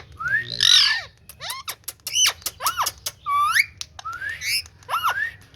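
Green ringneck parakeet (rose-ringed parakeet) calling: a quick series of short, shrill rising and arching chirps and squawks, about a dozen in a few seconds.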